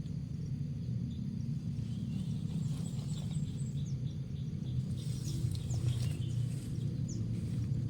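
Outdoor background with a steady low rumble and short faint chirps from small birds scattered through it.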